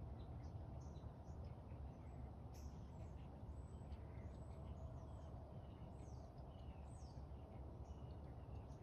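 Faint, scattered high chirps of small birds over a steady low background hum.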